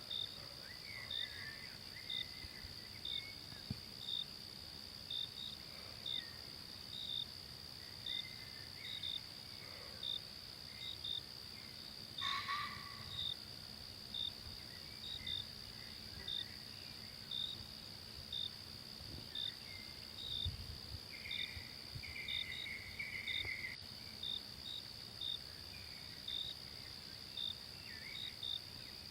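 Forest insect chorus: a steady high-pitched drone with short cricket-like chirps repeating a little more than once a second. Faint bird calls sound here and there, one louder call about twelve seconds in.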